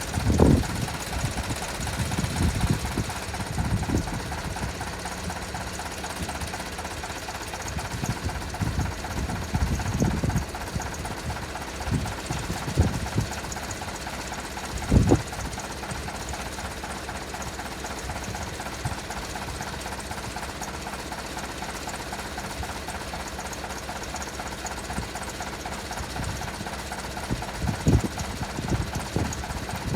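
Massey Ferguson 135 tractor engine running steadily at idle with a regular knocking pulse, broken by a few short low thumps.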